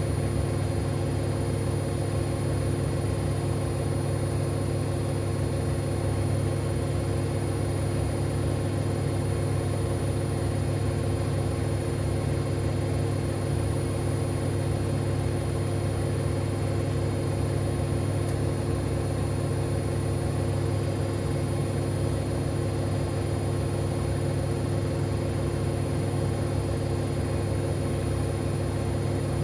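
Siemens Extraklasse XLs 140 A front-loading washing machine spinning its drum at a steady speed: an even motor and drum hum with steady whining tones, unchanging throughout.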